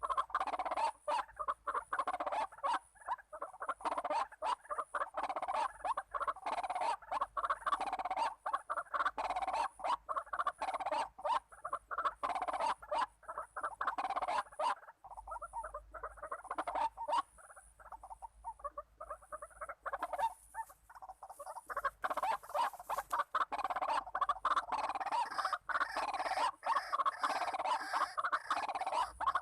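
White-breasted waterhens (ruak-ruak) calling: a dense run of rapid, repeated croaking calls that thins out a little past the middle and picks up again toward the end.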